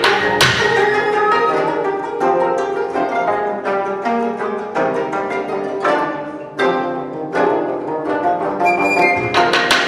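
Ensemble of 25-string and 18-string gayageums playing many overlapping plucked notes, with a couple of sharp strikes near the start.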